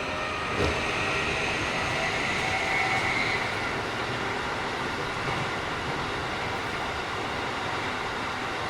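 Keikyu 1000 series electric train with a Mitsubishi IGBT inverter, running, heard from inside the car: steady rolling rumble with a faint whine, and a single knock about half a second in. The unit is a little noisier than other sets of its class.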